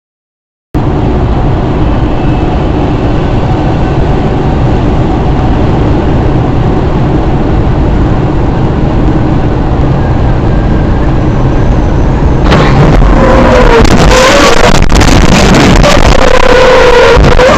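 Steady road and engine noise from a moving vehicle. About twelve seconds in it gets louder, with squealing and several sharp knocks and bangs, as in a crash.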